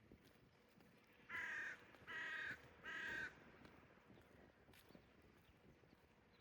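A crow cawing three times in quick succession, each caw about half a second long, starting about a second in.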